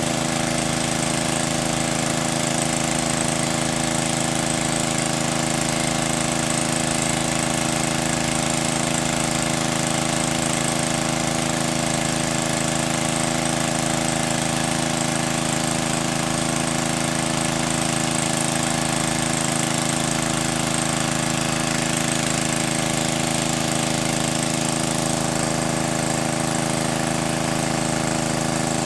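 A small engine running steadily at an unchanging speed.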